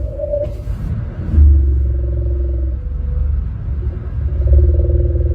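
Car radio giving out strange interference noise: a loud low buzzing drone with tones that come and go every second or two, and a short burst of hiss about a second in.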